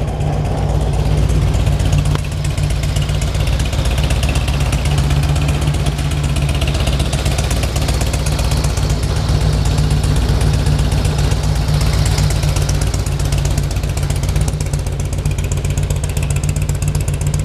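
2003 Harley-Davidson Electra Glide Ultra Classic's fuel-injected V-twin engine running at a steady idle.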